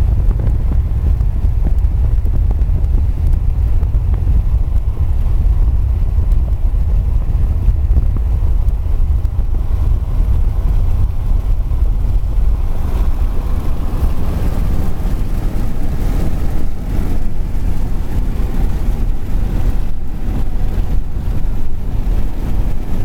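Moving car's road and wind noise, a steady low rumble, growing rougher and hissier from about halfway through.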